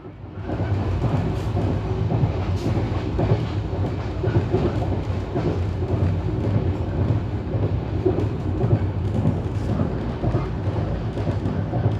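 Rajdhani Express passenger train running along the track: a steady rumble of wheels and carriage, with faint irregular knocks, swelling up over the first half second.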